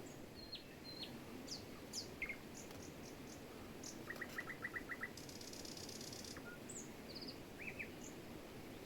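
Small songbirds chirping: scattered short high calls, with a quick run of about seven notes near the middle followed by a brief buzzy trill, over a steady low rushing background.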